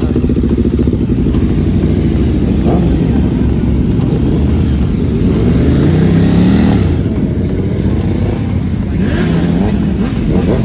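Motorcycle engine running loudly at idle, revved up and back down twice: once around the middle and once near the end.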